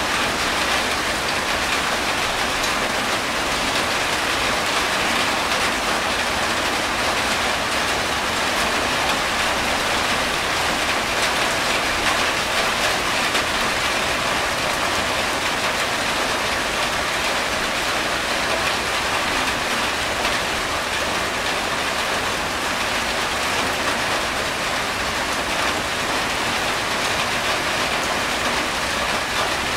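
Steady rain falling on a corrugated tin roof: an even hiss that keeps up without a break.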